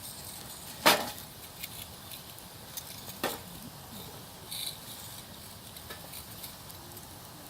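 Wood campfire crackling: scattered small ticks and snaps over a low hiss, with two sharp pops, the loudest about a second in and another a little after three seconds.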